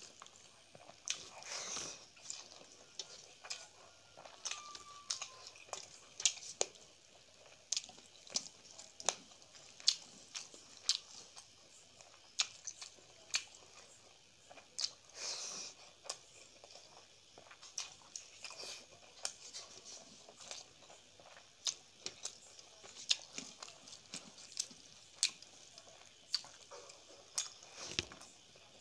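A person chewing rice and chicken curry eaten by hand: wet mouth smacking with many short sharp clicks, irregular, about one or two a second.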